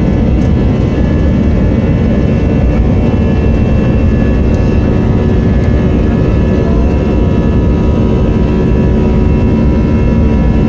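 Airbus A321-211's CFM56 jet engines heard from inside the passenger cabin: a loud, steady rumble with a steady whine of several tones over it.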